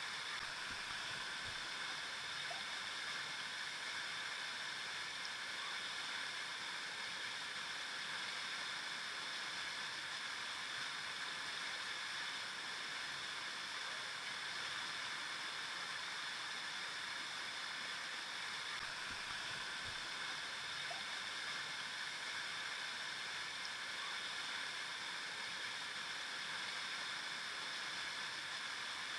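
River water flowing over rocks, a steady rushing and burbling that holds an even level throughout.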